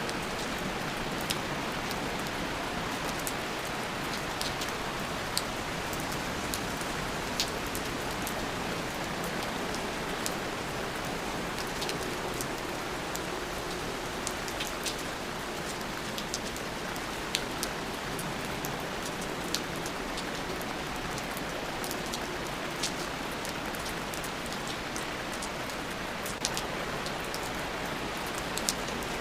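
Steady rain with scattered drop ticks: an even hiss with many individual drops hitting a surface.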